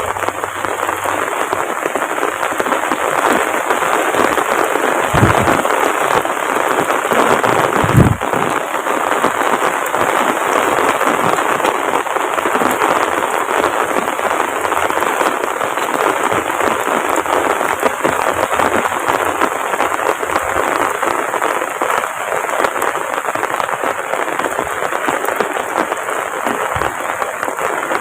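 Heavy rain pouring down in a steady, dense hiss, with a dull thump about five seconds in and a louder one about eight seconds in.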